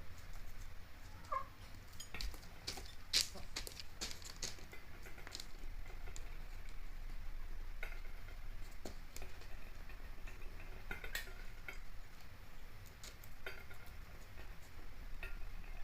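Domestic hens pecking at food in a dish: irregular sharp beak taps and clicks, with a short cluck about a second in and a few more soft calls later, over a steady low hum.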